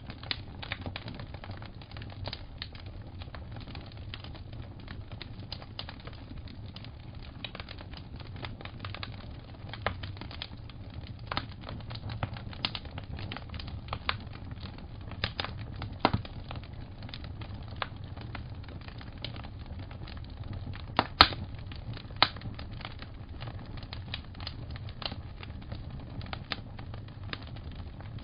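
Wood fire crackling, with irregular sharp pops over a low steady rumble; two louder pops come close together about three quarters of the way through.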